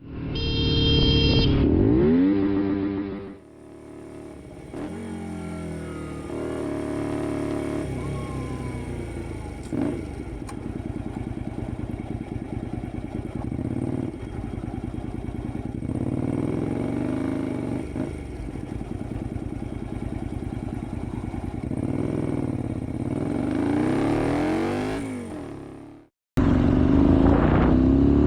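A 2005 Honda XL125V Varadero's 125cc V-twin, fitted with a Black Widow aftermarket exhaust, pulls through the gears while riding. The engine pitch climbs with each acceleration and drops at each gear change. A louder rev comes in the first few seconds, the sound cuts out abruptly near the end, then returns louder.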